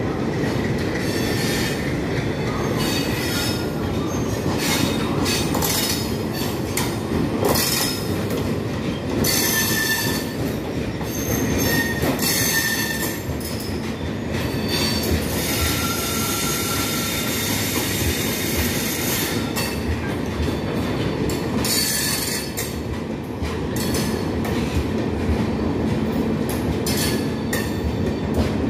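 Diesel-hauled empty passenger coach rake rolling slowly past, a continuous rumble of wheels on rail with clacking over the joints. Short high wheel squeals sound several times, the clearest about ten, twelve and sixteen seconds in.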